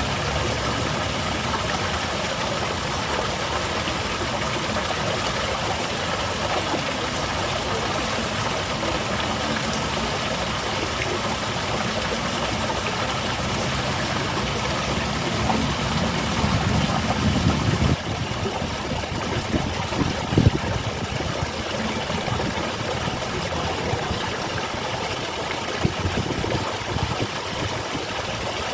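Small garden waterfall splashing steadily. Partway through, a low rumble swells and cuts off sharply, and a brief thump follows a couple of seconds later.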